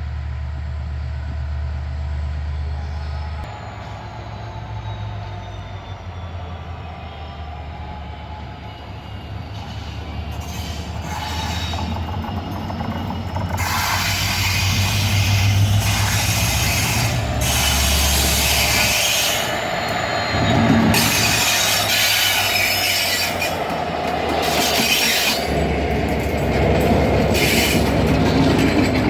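Freight train hauled by a Class M11 diesel locomotive coming into a station: the locomotive's engine drones steadily while the wheels squeal on the rails and the wagons clatter over the track, growing louder about halfway through as the train draws near.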